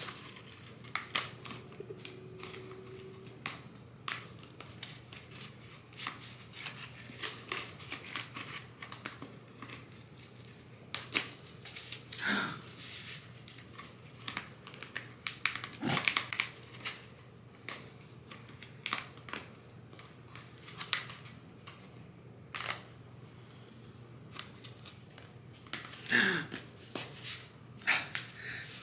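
Scattered clicks, taps and crinkles of plastic being handled as a water bottle is pushed into a plastic bottle-carrier holder, with a few brief squeaks, over a steady low hum.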